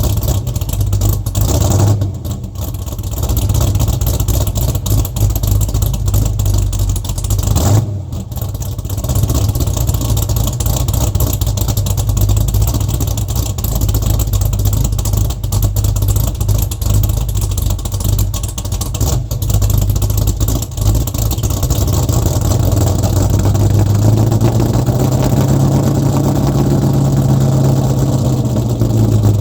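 LS-swapped Mustang Mach 1's GM LS V8 running through its exhaust, mostly at a steady idle. It revs up and eases back down near the end.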